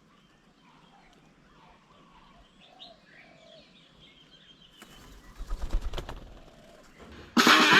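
Faint bird calls, then about five seconds in a brief, louder flutter of wings as a bird takes off close by. Music starts abruptly near the end.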